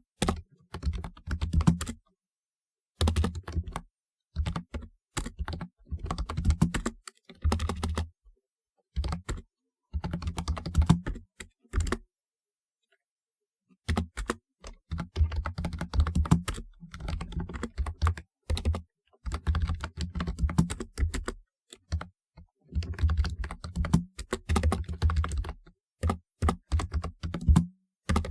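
Typing on a typewriter-style keyboard: quick runs of key clicks in bursts of a second or two, broken by short pauses, with a longer pause of about two seconds near the middle.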